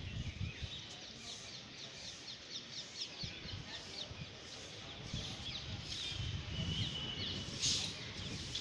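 Birds chirping outdoors: a quick series of short high chirps, then a held high note near the end, over a low rumble.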